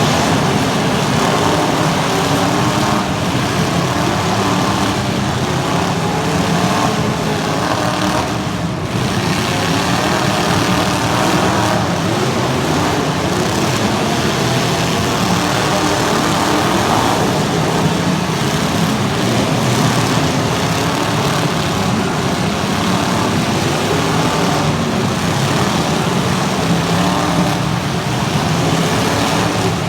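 Demolition derby cars' engines running hard and revving, a loud continuous engine sound with pitches wavering up and down.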